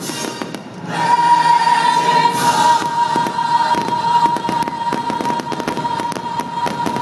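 Aerial fireworks shells bursting in rapid succession, a dense run of bangs and crackles, over the show's music. From about a second in, the music holds one long steady note.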